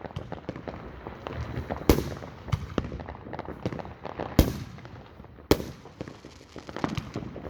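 Fireworks going off: a steady crackle of many small pops with three big booms spread through, about two, four and five and a half seconds in.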